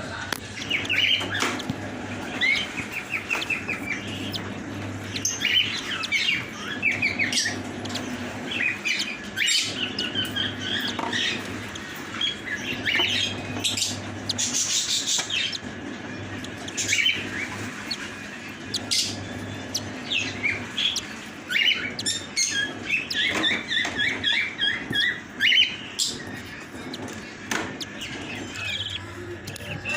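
Small cage birds chirping and twittering, with many rapid runs of short high notes, over a steady low hum.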